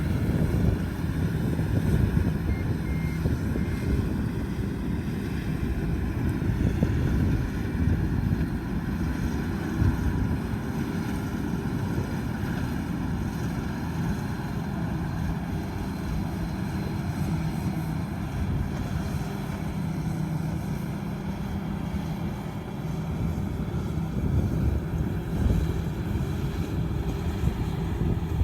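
Combine harvester running steadily under load while cutting rice, a continuous low engine-and-machinery drone. A few short high beeps sound about two to four seconds in.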